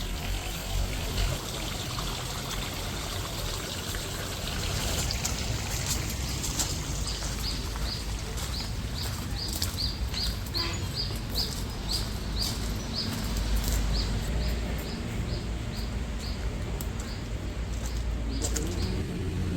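Running water with a steady rush, and a bird repeating a short high chirp about twice a second through the middle of the stretch.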